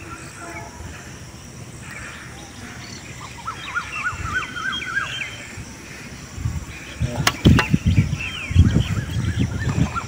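A bird calls in a quick run of rising and falling notes about four seconds in. From about six and a half seconds come close, uneven rumbles and a few sharp knocks as the catch is handled by the microphone.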